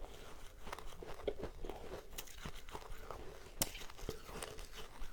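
Powdery ice being bitten and chewed close to the microphone: a run of irregular crisp crunches, with one sharp crack about three and a half seconds in.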